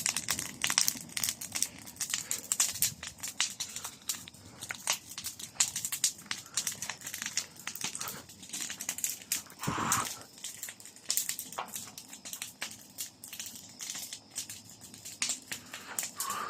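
Large bonfire burning, its wood crackling and popping in a rapid, irregular stream of sharp snaps. One short, voice-like sound about ten seconds in.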